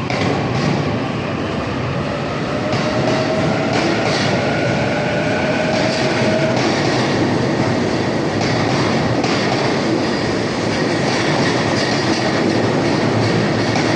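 Utsunomiya Line local electric train pulling out of the station, its wheels clacking over rail joints and points with a steady rumble. A faint rising whine comes in about three seconds in and lasts a few seconds.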